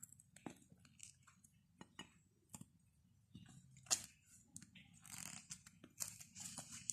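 Faint close-up eating sounds: a person chewing paratha, with scattered small mouth clicks and the soft rustle of the flatbread being torn by hand in the later seconds. One sharper click comes about four seconds in.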